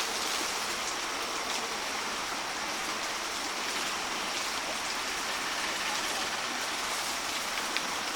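Steady rushing noise of running water, with a faint click near the end.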